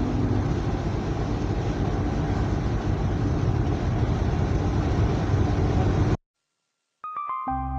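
An engine running steadily: a continuous low rumble under an even hiss, with no change in speed. It cuts off abruptly about six seconds in, and soft music begins near the end.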